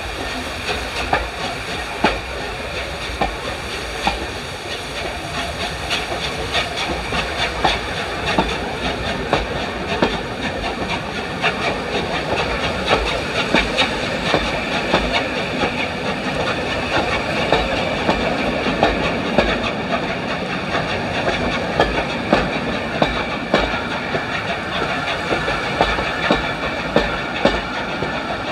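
Passenger coaches of a steam-hauled train rolling past, their wheels clicking irregularly over rail joints, several clicks a second, over a steady rushing noise.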